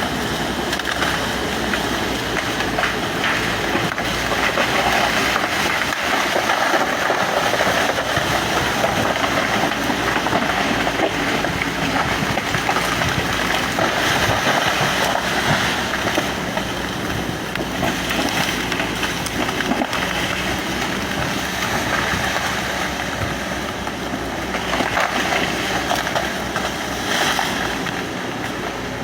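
Excavator running steadily while clearing land: a loud, continuous machine noise.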